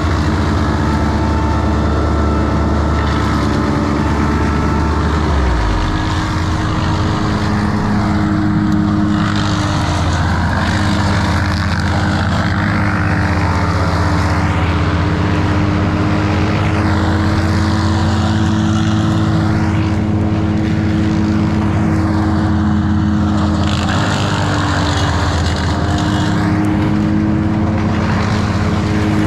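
A large engine of tree-work machinery running steadily at a constant speed. A rushing noise swells and fades over it every few seconds.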